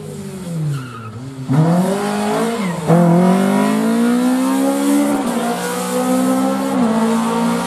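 Rally car engine falling in pitch as the car slows, then opening up sharply about a second and a half in and revving hard through the gears, the pitch dropping briefly at each of a few upshifts.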